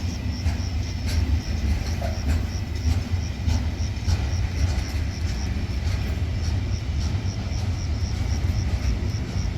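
Train running through a station: a steady low rumble, with a few sharp clicks in the first few seconds. A faint, evenly repeating high pulse sounds behind it throughout.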